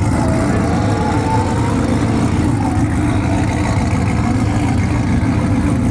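A vehicle engine running with a steady low rumble, holding an even level without a clear rev.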